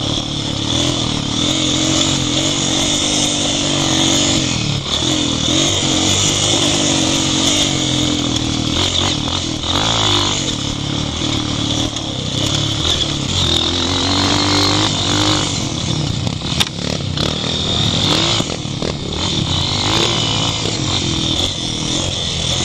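Off-road motorcycle engine running under way, its pitch rising and falling with the throttle, with one sharp knock about two-thirds of the way through.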